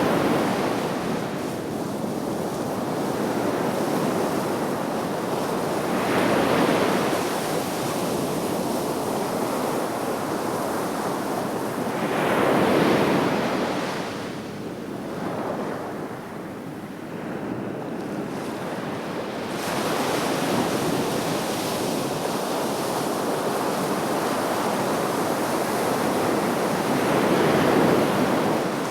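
Sea waves breaking on the shore: a rushing hiss that swells as each wave breaks and fades as it washes back, one surge every several seconds, with a quieter lull about halfway through.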